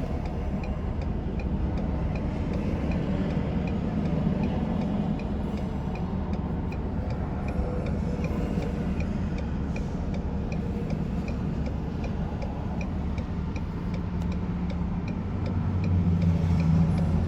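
A car's indicator clicking steadily, about two to three ticks a second, over the low rumble of an idling vehicle heard from inside the cabin. The rumble swells near the end.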